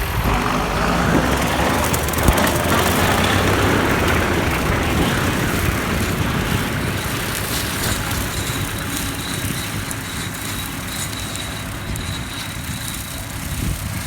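John Deere 7130 tractor's six-cylinder diesel running steadily under load while pulling a brush hog through pasture.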